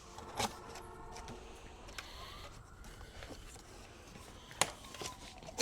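Zip ties on a packed e-bike being snipped with a cutter: two sharp snaps, about half a second in and about a second before the end, with lighter clicks and plastic rattling between.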